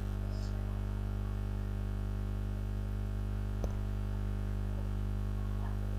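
Steady electrical mains hum with a stack of even overtones and a faint hiss, with one short click a little past halfway.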